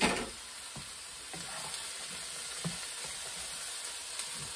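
Italian sausage, onion and freshly added garlic sizzling in a skillet, with a spatula stirring and tapping against the pan. A brief sharp clatter right at the start is the loudest moment.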